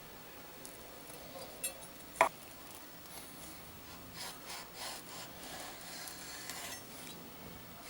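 Kitchen handling sounds: a sharp knock with a short ring a couple of seconds in, then a run of short scraping and rubbing strokes.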